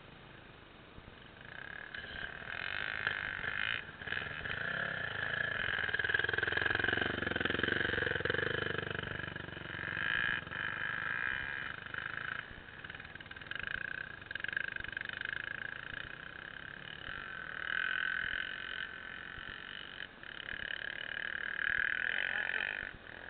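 Off-road motorcycle engines revving in several long, high-pitched buzzes that break off and start again. A lower engine note swells up and fades away about a third of the way through.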